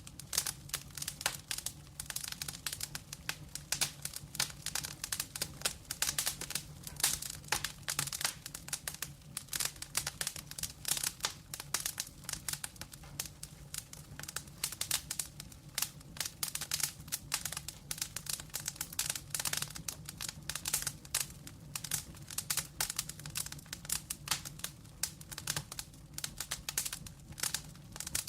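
Wood fire crackling: burning logs giving a dense, irregular run of sharp pops and snaps over a faint low hum.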